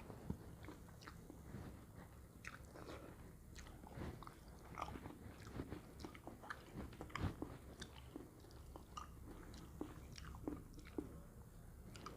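Someone eating: faint, irregular clicks and crunches of biting and chewing, a few a second, over a low steady hum.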